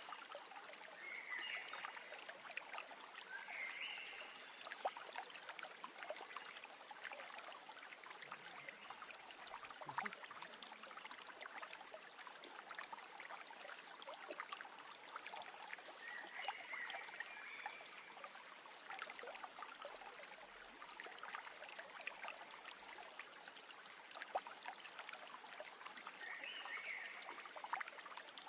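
Steady babbling of a flowing stream, with short bird chirps four times, two of them about a second in and a few seconds in.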